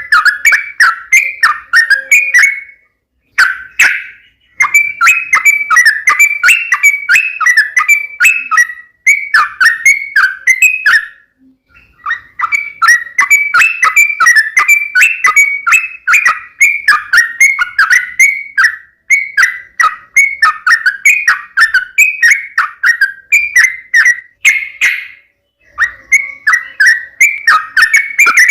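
Yellow-vented bulbul (trucukan) singing in fast, bubbly runs of short chirping notes, broken by brief pauses about three, eleven and twenty-five seconds in.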